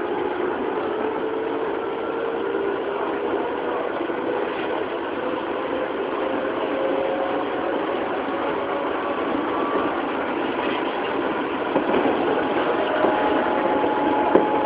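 Running sound of a 205 series electric train heard from inside a motor car: the MT61 traction motors and gearing whine under field-added excitation control, the whine rising slowly in pitch as the train gathers speed, over steady wheel-on-rail noise. A few short clicks near the end.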